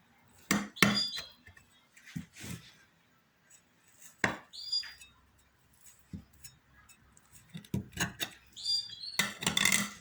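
A knife or cake server cutting into a tray of basbousa (semolina cake), clinking and scraping against the baking dish in a run of short knocks and scrapes, some ringing briefly, with the busiest clatter near the end as the piece is lifted out.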